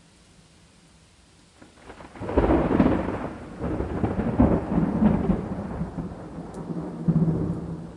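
Thunder over rain. After a quiet start the thunder breaks about two seconds in and rolls on with several crackling peaks, then surges again near the end.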